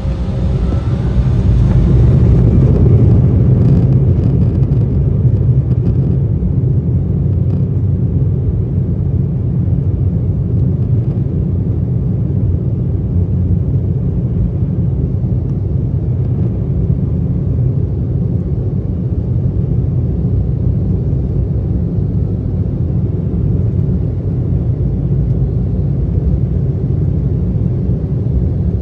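Embraer 175 jet at takeoff: its twin turbofan engines and the airframe give a loud, deep rumble, heard from inside the cabin. The rumble is loudest in the first few seconds, then settles into a steady drone as the jet climbs.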